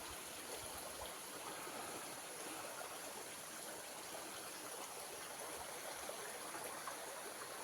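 A small stream of water flowing steadily, a faint, even rushing trickle.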